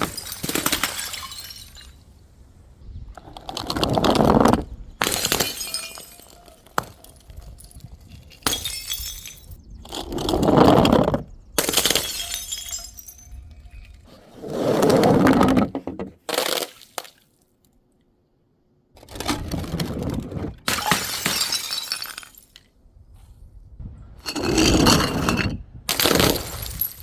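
Glass bottles and jars smashing one after another, about ten separate crashes of breaking glass with short pauses between them and a brief dead gap about two-thirds of the way through.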